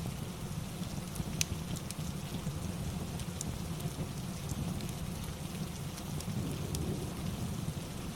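Steady rain with a low, even rumble underneath, mixed with the scattered small crackles and pops of a wood fire; the sharpest pop comes about a second and a half in.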